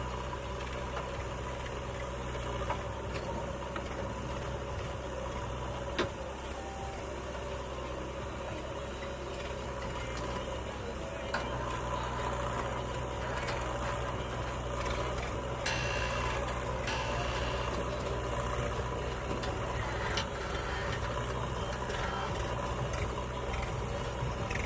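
Diesel engine of a heavy farm or construction machine running steadily at low revs, with a few brief sharp knocks.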